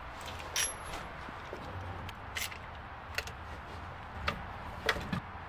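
Five light clicks and knocks at irregular spacing, the sharpest near the start and two close together near the end, over a steady low hum and hiss.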